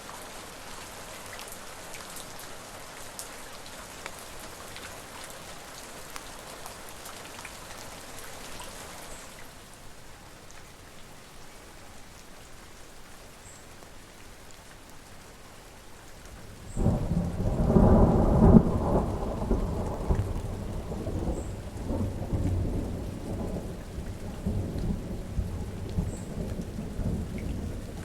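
Steady rain falling, its hiss easing a little about a third of the way in. About two-thirds of the way through, a loud rumble of thunder breaks in suddenly and keeps rolling over the rain to the end.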